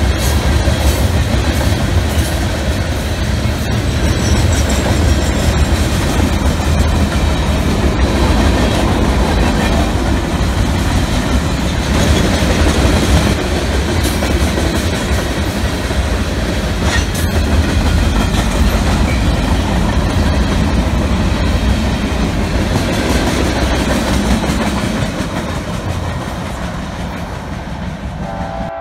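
Freight train's cars rolling past close by: a steady heavy rumble of steel wheels on the rails, with a few sharp clanks, dying away near the end.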